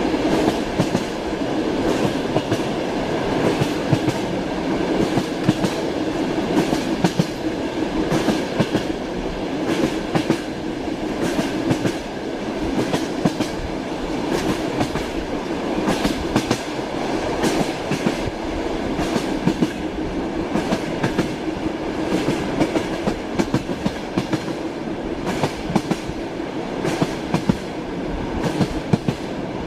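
Steady rumble of a moving passenger train heard from inside a compartment, with the wheels clattering over rail joints in irregular clusters of knocks.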